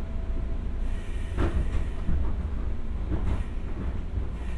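JR 201 series electric commuter train running, heard from inside the carriage: a steady low rumble, with two louder clatters about two seconds apart as the wheels cross rail joints.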